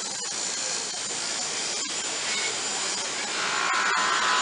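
Steady rushing and rattling noise of a moving train, with occasional sharp clicks; about three seconds in a higher-pitched tone joins it.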